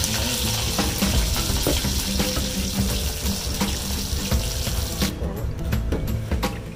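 Batter-coated crabs frying in hot oil in a wok: a steady sizzle that cuts off suddenly about five seconds in, leaving background music and a few light clicks.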